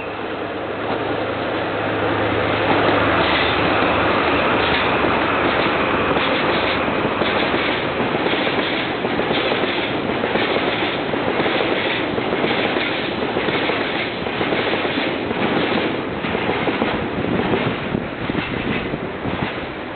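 Freight train of tank wagons passing close, its wheels clattering over the rail joints in a steady rhythm. At the start the low hum of the double-headed DD51 diesel locomotives is heard, fading within the first few seconds as the wagons roll by.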